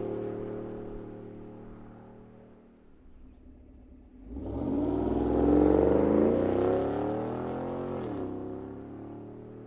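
Cadillac Escalade 6.2-litre V8 through an AWE 0FG true-dual stainless catback exhaust. It settles to a low idle after a rev, is revved again a little over four seconds in with the pitch climbing and held, then drops back to idle about eight seconds in.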